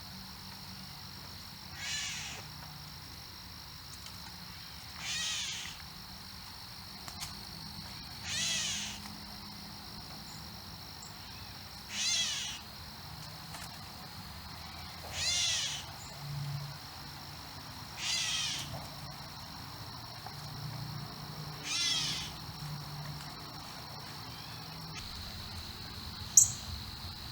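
A bird repeating a short, harsh, cat-like call seven times, one about every three to four seconds, over steady insect trilling; one sharp click near the end.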